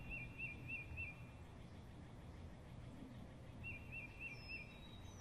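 Faint birdsong over a quiet outdoor background. A bird repeats a short hooked chirp about five times in quick succession, then about four more times near the end, with a couple of brief higher whistles and a steady low hum underneath.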